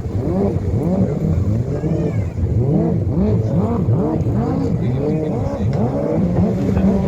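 Stand-up racing jet skis' engines revving up and down over and over, their pitch rising and falling in quick overlapping arcs as the riders throttle through parallel slalom turns. Near the end one engine holds a steadier pitch.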